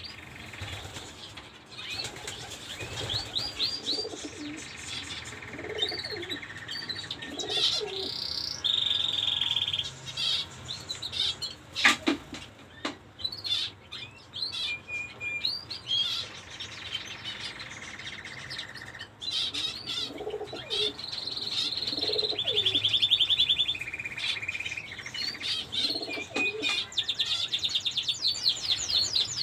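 Zebra finches chirping and calling over and over, with fast ticking call trains and wing flutters, and one sharp click about twelve seconds in.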